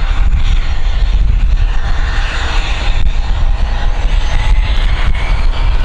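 Aircraft engines running loud and steady, an even rushing noise with a strong deep rumble underneath.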